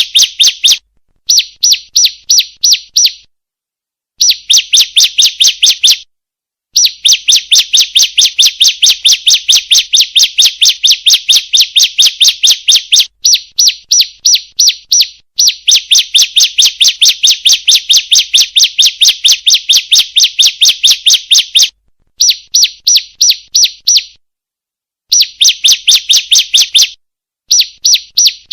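Female bar-winged prinia (ciblek) calling: a rapid, even series of high chirps, about four to five a second, in runs of one to several seconds broken by short silences. It is the female's call played as a lure to get male ciblek birds to sing.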